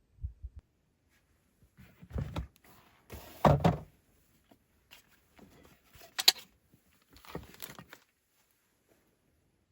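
A series of separate thuds and clunks, the loudest about three and a half seconds in, with a sharp click about six seconds in and softer knocks after it.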